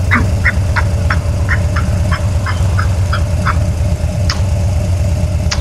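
A person making rapid duck-like clucking noises with the mouth, about three a second, stopping about two thirds of the way in, over the steady drone of a motorcycle engine.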